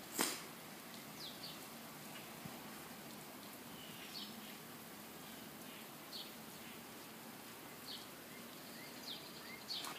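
Birds chirping outdoors: short high chirps, a dozen or so scattered irregularly, over a steady hiss, with a few short rising calls near the end. A single sharp knock, the loudest sound, comes just after the start.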